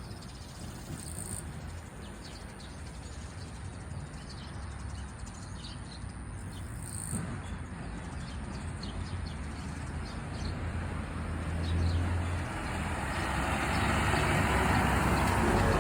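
Outdoor ambience with faint scattered chirps, under a low rumbling, rushing noise that grows steadily louder over the last several seconds.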